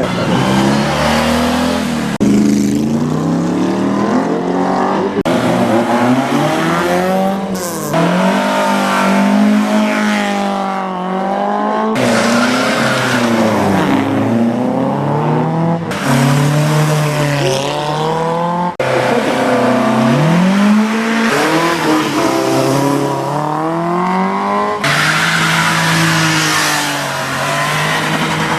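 Classic car engines revving hard and easing off again and again as the cars accelerate and slow through a tight gymkhana course, the pitch climbing and dropping every second or two. The sound switches abruptly to a different engine every few seconds.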